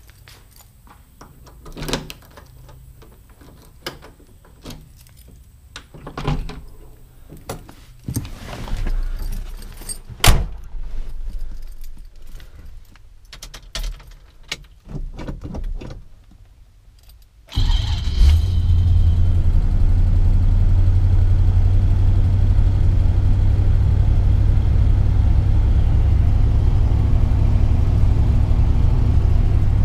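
Getting into an old car: scattered knocks and clicks of the door, seat and keys. About two-thirds of the way through, the old police car's engine starts suddenly and runs on at a steady idle.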